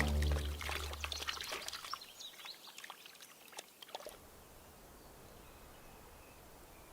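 Shallow water splashing and trickling in quick small strokes for about the first four seconds, as toads scramble in a spawning pond. After that it settles to a faint, steady outdoor hiss.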